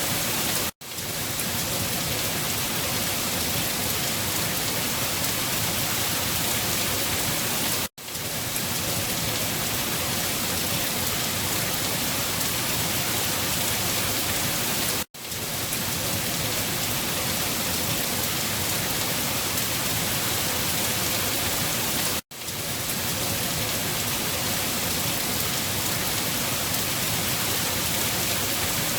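Steady rain falling, an even hiss across all pitches. About every seven seconds the sound drops out for a split second and fades back in: the seam of a looped recording.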